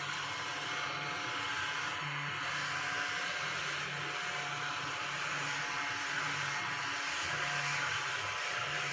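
Crumby mini handheld vacuum's small 12,000 RPM motor running steadily, a thin whine under an airy hiss, as it sweeps up a spill.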